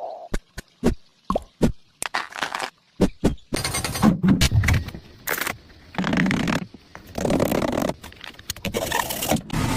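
A run of short, sharp knocks and clicks, followed by choppy bursts of scraping and rumbling noise.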